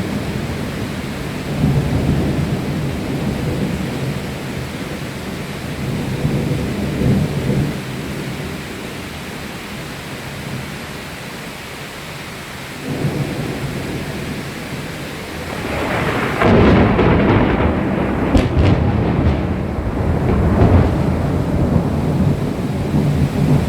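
Thunderstorm: steady rain with thunder rumbling in repeated low swells. A louder, longer roll of thunder starts about two-thirds of the way in and carries on almost to the end.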